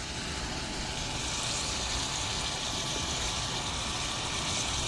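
Pork and chili frying in a pan, a steady sizzle.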